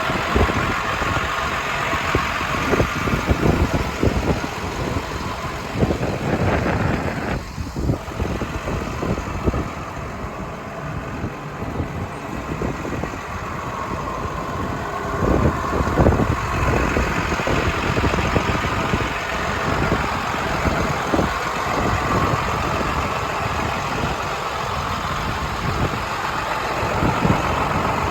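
International DT466 inline-six diesel in a 2007 IHC 4300 truck, idling steadily.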